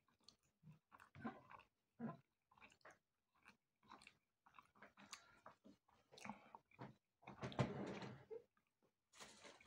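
Quiet close-up chewing and biting of a mouthful of pasta and fried sausage, a string of short irregular wet mouth sounds, with one louder stretch lasting about a second near the end.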